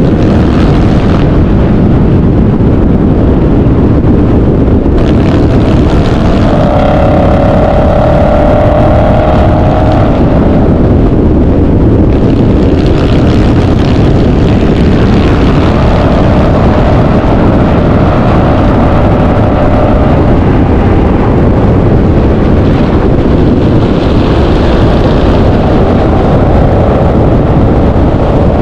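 Loud car engine exhaust running at a car meet, the pitch of the engine note rising and falling a few times.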